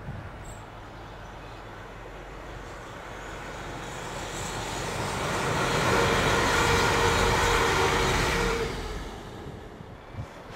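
Class 185 diesel multiple unit approaching and passing close by at speed. Its sound builds over several seconds, stays loud for about three seconds with a steady engine tone, then falls away quickly. A short knock comes near the end.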